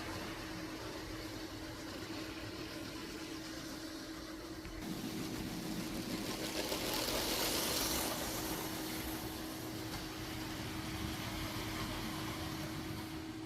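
Motorised Lego train running on plastic track: a steady motor hum over the rattle of its wheels. It grows louder about five seconds in as the train comes close, then eases off.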